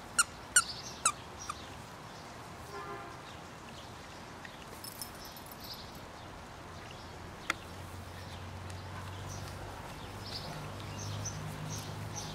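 Birds chirping: three or four sharp, loud chirps in the first second, then fainter chirps, with a low steady hum coming in about eight seconds in.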